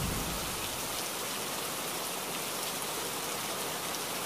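Steady, even hiss of falling water with faint scattered drop ticks; a low rumble fades out in the first second.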